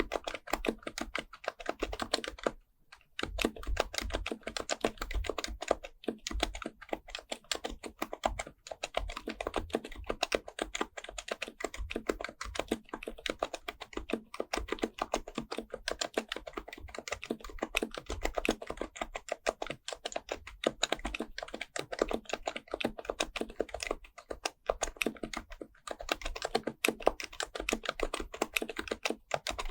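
Fast, continuous typing on a Happy Hacking Keyboard Professional Type-S, its Topre electrostatic capacitive switches giving soft, muted keystrokes in a steady stream, with a brief pause about three seconds in.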